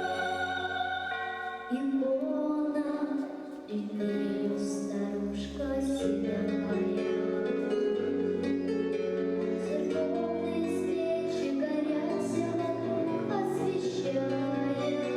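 A song performed at a vocal studio concert: singing over an instrumental accompaniment, moving through a series of held notes.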